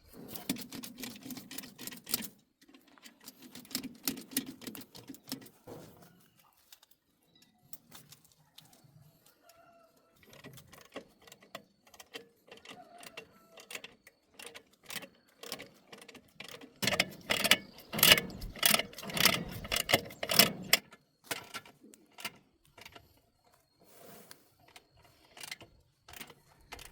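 Metal tools and parts clinking and clattering in irregular runs of clicks and knocks, busiest and loudest in a stretch about two thirds of the way through.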